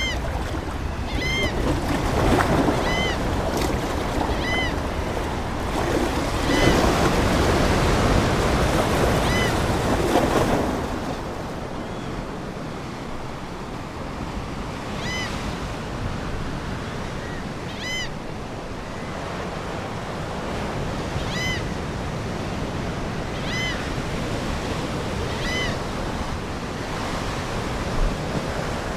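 Ocean waves washing on a shore, the surf swelling loudest in the first ten seconds and then easing off, with seagulls giving short repeated calls every couple of seconds.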